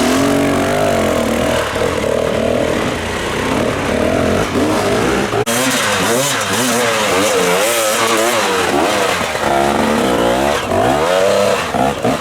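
Enduro motorcycle engine revving up and down over and over as it works through rough terrain, its pitch rising and falling in quick waves. There is a brief break about five and a half seconds in.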